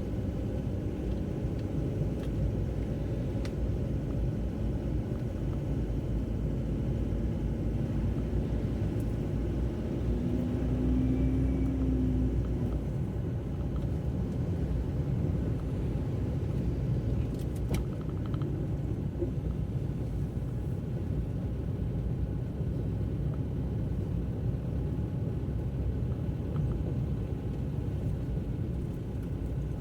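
A car driving on a wet road: a steady low rumble of engine and tyre noise. It swells briefly with a short humming tone about ten seconds in.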